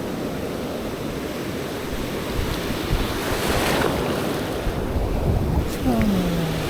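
Ocean surf breaking and washing on a beach, with wind buffeting the microphone; a wave builds and breaks about three to four seconds in, followed by a low rumble.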